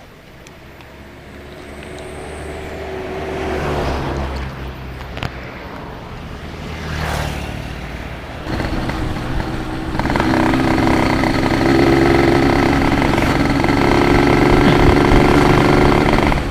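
Yamaha RX-King two-stroke motorcycle engine running under way. It builds up over the first few seconds, eases off, then runs loud and steady from about halfway through.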